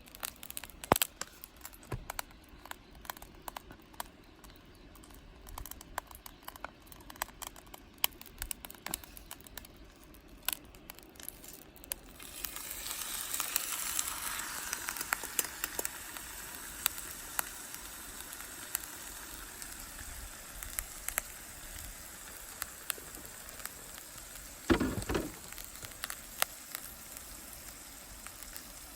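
Campfire crackling with scattered sharp pops. About twelve seconds in, a steady sizzling starts and carries on under the pops. Near the end there is a short, louder thud.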